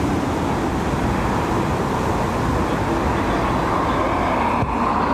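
Strong gusty wind buffeting the microphone, with the steady whine of the Dash 8's turboprop engines at go-around power, a little stronger in the second half.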